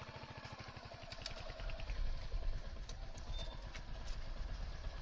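Motorcycle engine idling with a fast, even low thudding. About a second and a half in, a louder, denser low rumble takes over.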